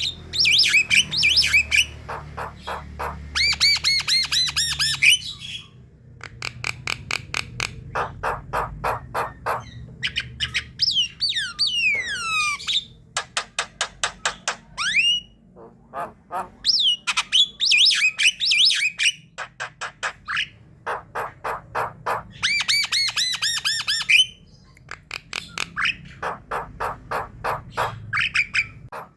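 Flock of Javan mynas (jalak kebo) calling and singing: fast trains of harsh, repeated chattering notes mixed with gliding whistles, with short breaks between phrases.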